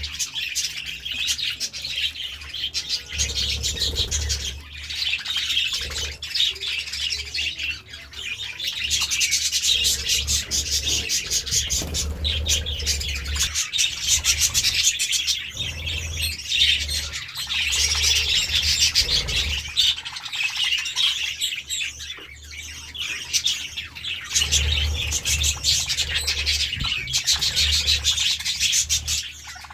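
Budgies chattering and warbling without pause, a dense stream of rapid high chirps, with an intermittent low rumble underneath.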